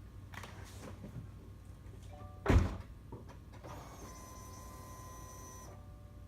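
A car door shutting with one heavy thud, then faint chime tones and a whir of about two seconds as the Subaru WRX's ignition is switched on, before the engine is started.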